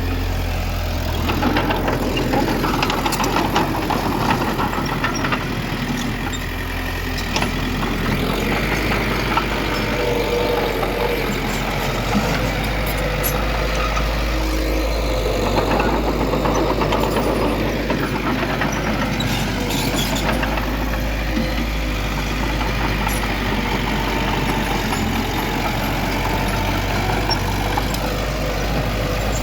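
Heavy diesel engine of earthmoving machinery running steadily, with scattered short metallic clanks over it.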